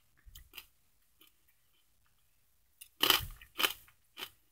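A person chewing a crunchy gluten-free pretzel stick. A few faint crunches come near the start, then three louder crunches in the last second and a half.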